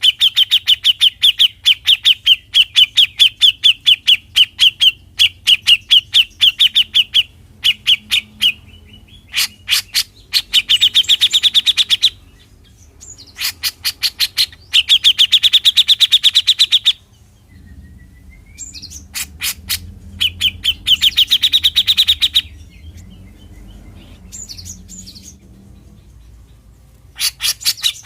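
Grey-cheeked bulbul (cucak jenggot) giving its 'besetan' call: rapid runs of sharp, ticking notes, several a second, in bursts of one to three seconds separated by short pauses, softer for a few seconds past the middle.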